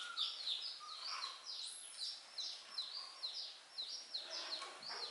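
A bird's rapid peeping: short, high chirps that each slide downward, about three a second, repeating steadily.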